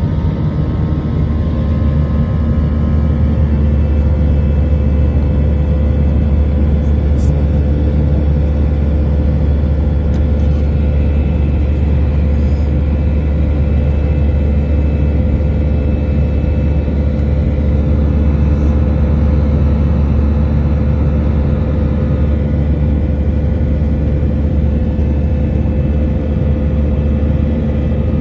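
Jet airliner cabin noise: the engines running with a steady low rumble and a few faint steady whining tones.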